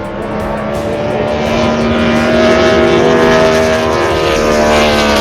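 The V8 engine of a 6-litre circuit racing boat running hard at high revs, a steady engine note that grows louder over the first couple of seconds and then holds.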